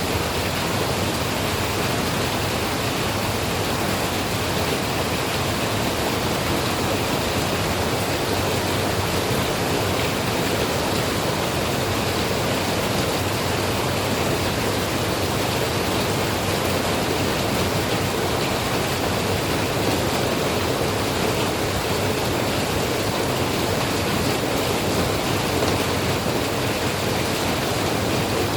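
Steady rain, an even hiss that holds constant without let-up.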